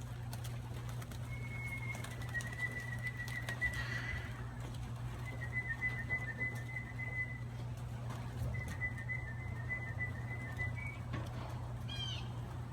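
Young birds calling with thin, high, long-held notes, three in a row and then a short rising chirp near the end, over a steady low hum.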